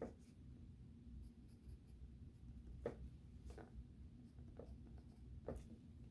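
Faint drawing strokes on sketchbook paper, about five short scratches spaced irregularly over a low steady hum.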